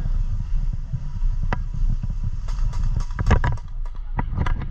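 Low rumble of wind and movement on a body-worn action camera's microphone, with scattered sharp clicks, a short cluster of them about three seconds in.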